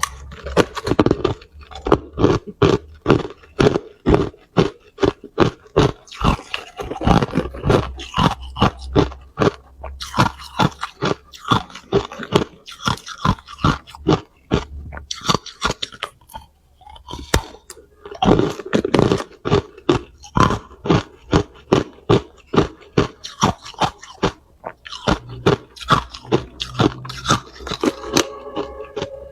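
Hard clear ice being bitten and chewed: rapid, sharp crunching and cracking, with a short lull about halfway through.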